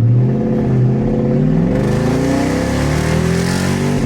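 Lexus SC400's 4.0-litre V8 accelerating hard through a freshly fitted aftermarket exhaust, the note rising steadily in pitch as the revs climb.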